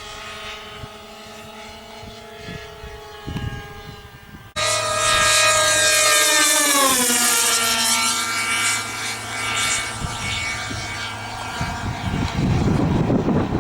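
Twin two-stroke glow engines (Irvine 53s) of a radio-control model plane running at speed with a steady high buzz. About four and a half seconds in the sound jumps abruptly much louder, and then its pitch drops steeply before levelling off, as the plane passes close by.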